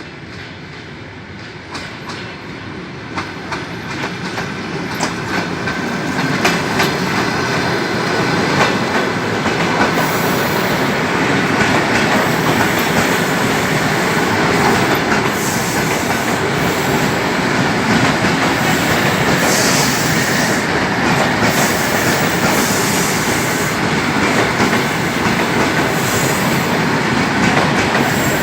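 ED4M electric multiple unit pulling out and gathering speed, growing steadily louder over the first several seconds as its cars come past, then a steady loud run with the wheels clicking over the rail joints.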